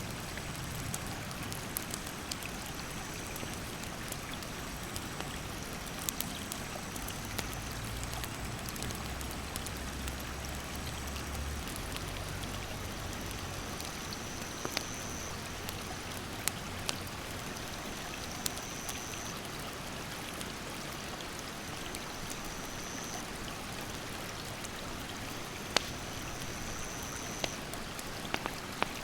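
Steady rush of a stream's rapids, with a wood campfire crackling in scattered sharp pops. A high, thin call repeats in short stretches of about a second every few seconds.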